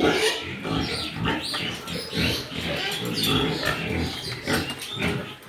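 Pigs grunting and squealing, many calls overlapping without a break.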